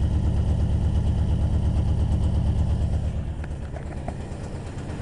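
1989 Jeep Grand Wagoneer's AMC 360 two-barrel V8 idling cold with a dead miss, the rearmost spark plug on one side being the worst. The running gets a little quieter about three seconds in.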